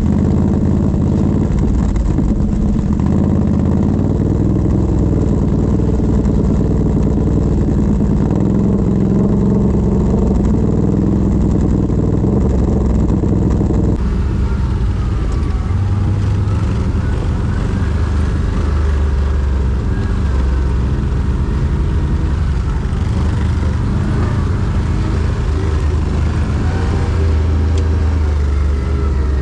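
Quad bike (ATV) engines running under way over off-road ground, engine speed rising and falling. The sound changes abruptly about halfway through.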